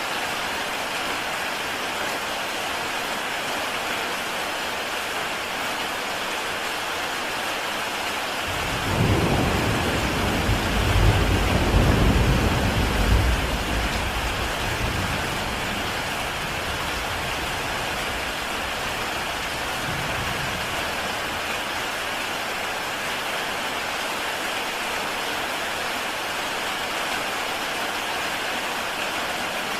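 Heavy rain falling steadily on a tile roof. About eight seconds in, a long roll of thunder swells, peaks a few seconds later and fades away, with a faint further rumble near twenty seconds.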